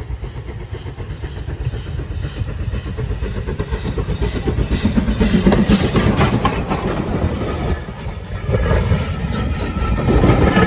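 Heritage steam train running on the line, with a regular beat that grows louder over the first several seconds.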